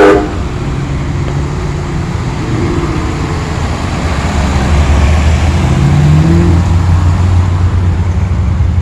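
Muscle car engine rumbling as it drives slowly past in a car-show cruise, the deep exhaust note growing louder about halfway through.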